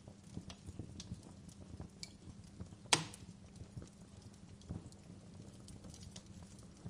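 Wood fire in a fireplace crackling: irregular small snaps and pops, with one loud sharp pop about three seconds in.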